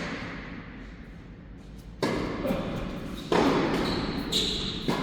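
Tennis ball struck by rackets in a rally, three sharp hits about a second or two apart, each echoing in a large indoor hall.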